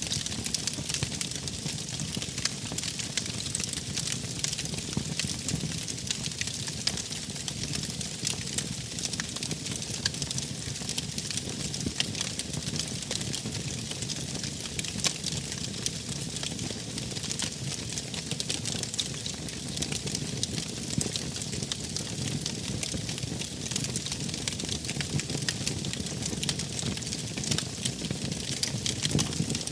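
Wood fire crackling, a dense run of small pops and snaps over a low rumble of burning.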